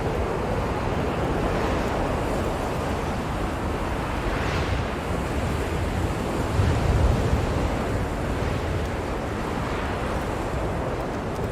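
Blizzard wind blowing steadily in low rushing gusts, swelling briefly about halfway through, with no distinct tones.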